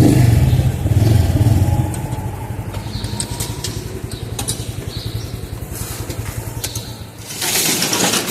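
Honda Pop 110's small single-cylinder four-stroke engine running, louder with a few swells over the first two seconds, then settling to an even, quieter idle. A rush of noise comes in near the end.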